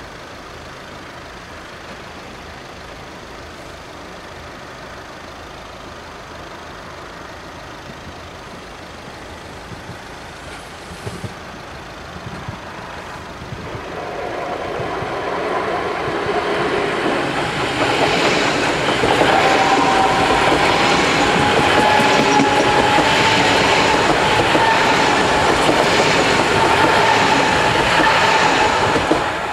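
DB Class 423 S-Bahn electric multiple unit approaching and passing close by. The train's noise builds from about halfway through and stays loud, with a steady high whine through the loudest part.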